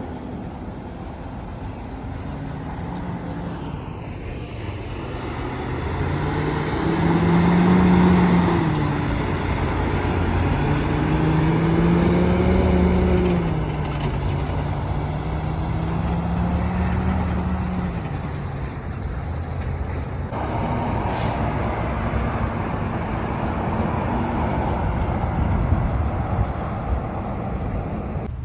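Semi trucks' diesel engines passing by over steady road noise. The engine pitch rises and falls, and it is loudest about a third of the way in and again shortly after.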